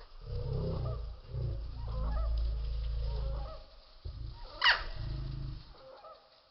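Hummingbird wings humming in bursts of a second or two as it hovers and feeds, with short breaks between them. A single sharp, high bird chirp about four and a half seconds in is the loudest sound.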